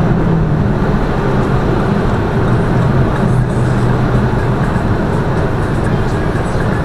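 Lada Vesta Cross on the move: a loud, steady rumble of engine and road noise, with a low engine hum beneath it.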